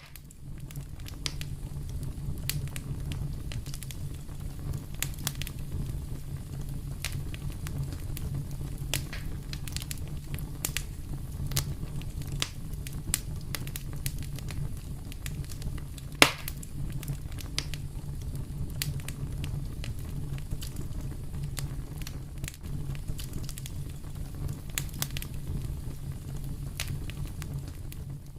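Fire burning in a fireplace, crackling with many small irregular pops over a steady low rumble of flames, and one sharp, much louder pop about halfway through.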